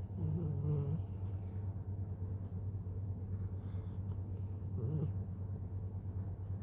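A sleeping dog snoring: two short pitched snores about four seconds apart, over a steady low hum.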